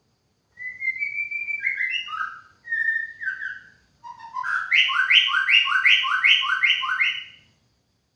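White-rumped shama (murai batu) singing three loud whistled phrases, the last a run of about seven quickly repeated two-note whistles.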